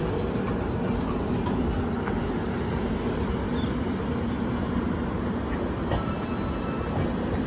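Passenger coaches of an express train rolling past close by, a steady rumble of wheels on the rails, with a faint thin whine about six seconds in.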